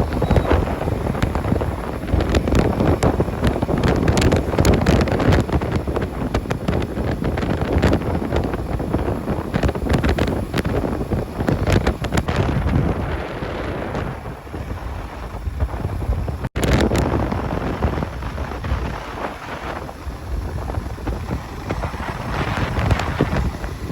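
Wind buffeting the microphone of a motorcycle riding at road speed: a rough rushing noise that swells and eases. The sound cuts out for an instant about two-thirds of the way through.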